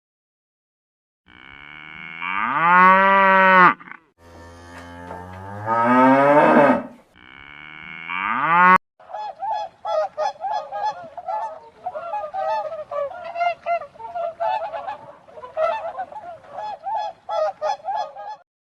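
Cows mooing three times in long, rising calls, followed by about ten seconds of a flock of birds honking in quick, overlapping calls.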